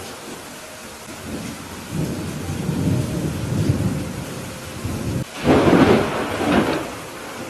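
Thunderstorm with steady rain; thunder rumbles low from about two seconds in, then a louder, sharper peal breaks out about five seconds in and fades back into the rain.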